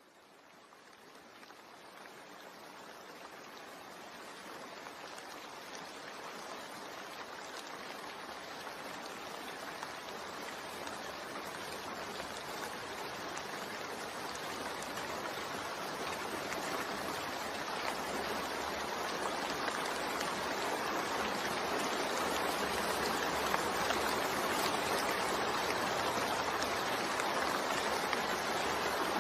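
Steady rain falling, an even hiss with no distinct drops standing out. It fades in from silence and swells gradually louder over about twenty seconds, then holds level.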